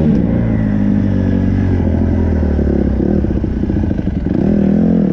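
Dirt bike engine running under throttle, its pitch rising and falling as the rider works the throttle, climbing again near the end.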